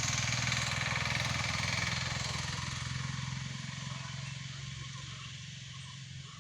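A motor vehicle engine running at a steady pitch, passing and gradually fading as it moves away.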